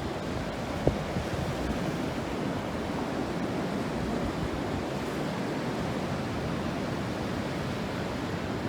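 Ocean surf washing steadily on the shore, an even rushing noise.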